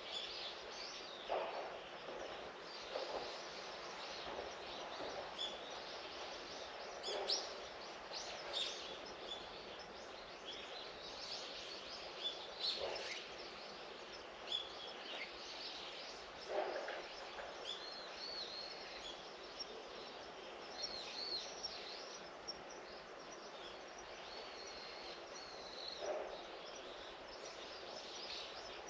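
Small birds chirping and calling on and off, some calls repeated as short rising-and-falling notes, over a steady outdoor hiss, with a few short, duller sounds in between.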